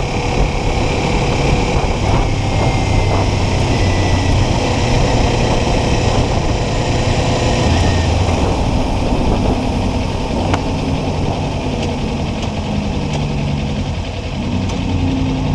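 Kawasaki Ninja 400 parallel-twin motorcycle engine running steadily at road speed, under a constant rush of wind noise.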